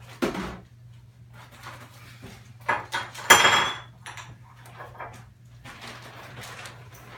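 Household clatter of dishes and utensils being handled: scattered knocks, with the loudest clink, which rings briefly, a little over three seconds in. A steady low hum runs underneath.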